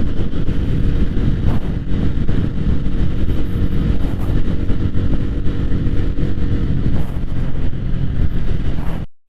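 Motorcycle engine running at a steady speed, with a heavy low rumble under it.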